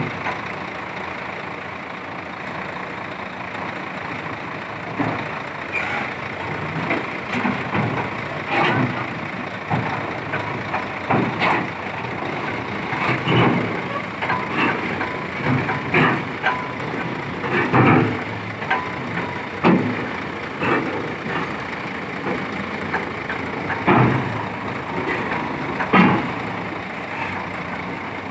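Nissan D308-S piling rig running steadily while being driven onto or off a lorry, with irregular loud metallic clanks and knocks about every second or two.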